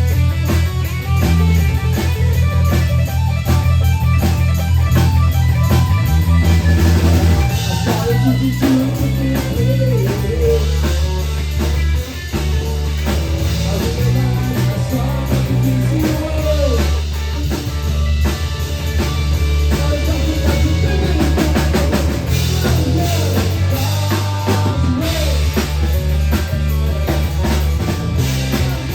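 Live rock band playing: drum kit, bass and electric guitar, loud and continuous.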